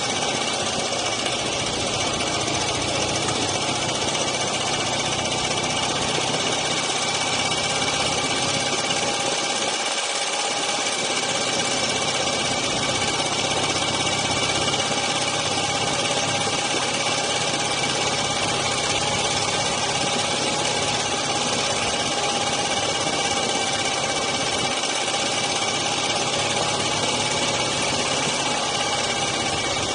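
Dnepr MT-9 sidecar motorcycle's boxer-twin engine running steadily at an unchanging speed.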